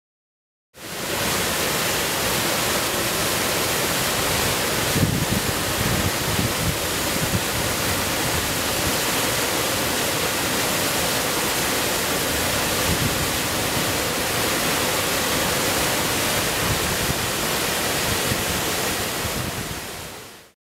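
Rain-swollen waterfall pouring over a rock ledge: a steady, loud rushing of falling water that fades in and fades out, with a few brief low bumps about five to seven seconds in.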